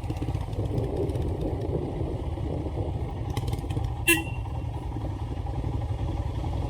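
Royal Enfield Himalayan single-cylinder motorcycle engine running steadily under way on a rocky trail, with a sharp knock about four seconds in.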